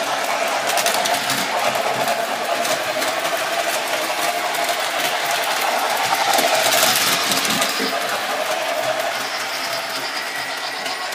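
Model steam locomotive with a Proto-Sound 2.0 sound system running on its track: a steady whir of the motor and wheels mixed with the onboard speaker's steam sounds, with a louder hiss about six to seven seconds in.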